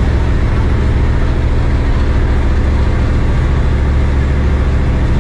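A wooden passenger boat's engine running steadily, a loud low drone with a constant pitch, under a dense rush of wind and water noise.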